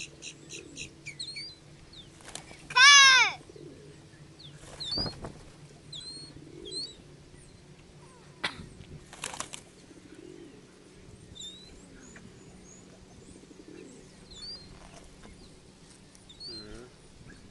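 Birds flapping their wings and chirping in short scattered calls, with a few sudden flutters. One loud, high, wavering call comes about three seconds in.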